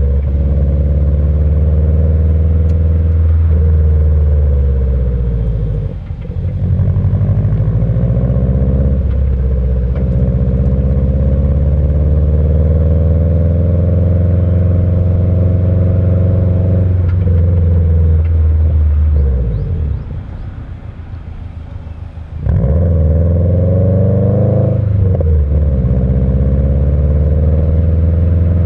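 Turbocharged EJ20 flat-four of a Subaru Impreza WRX, with stock unequal-length headers and a Kakimoto aftermarket muffler, giving the off-beat boxer rumble. It pulls up through the revs several times, the pitch climbing and then dropping at each gear change. About two-thirds through, it goes quieter off the throttle for roughly three seconds before revving up again.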